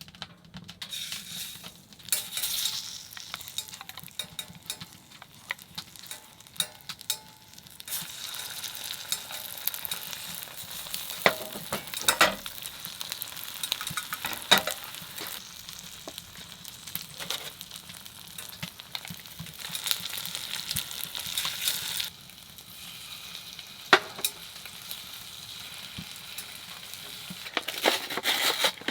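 Egg-coated gimbap frying in a pan, a steady sizzle with occasional sharp clicks. The sizzle gets louder about eight seconds in and falls back a little after twenty seconds.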